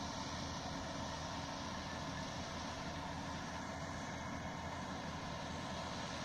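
Swaraj 855 tractor's diesel engine running steadily, with no change in pitch.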